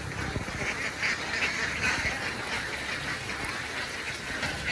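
A large flock of domestic ducks quacking, many short calls overlapping without a break.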